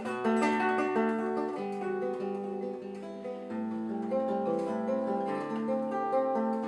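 Acoustic guitar played solo, single picked notes ringing on over one another: the instrumental introduction to a song.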